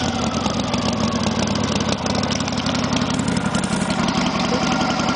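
1974 Harley-Davidson FXE 1200 Super Glide's Shovelhead V-twin running steadily at idle.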